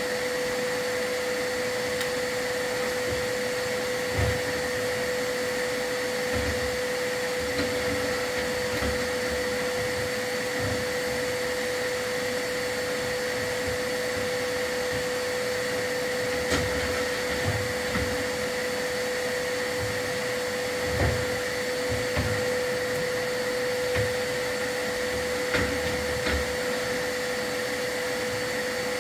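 Vacuum cleaner running steadily with a constant whine, with scattered dull thumps underneath.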